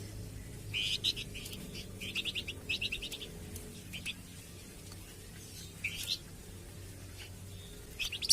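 Cage bird chirping in short, rapid bursts of sharp, high notes, with pauses between the bursts and the loudest burst at the very end; a low steady hum runs underneath.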